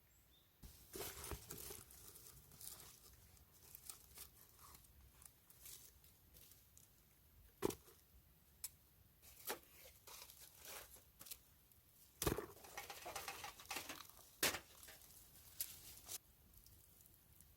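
Faint scattered clicks and taps with short stretches of crinkling rustle.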